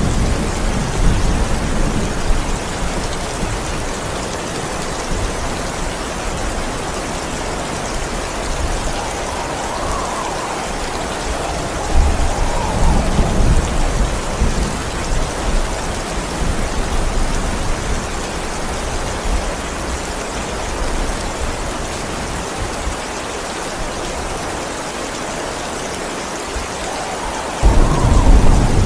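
Steady heavy rain with rolls of thunder. Low rumbles come near the start and again about halfway through, and a louder thunderclap breaks suddenly near the end.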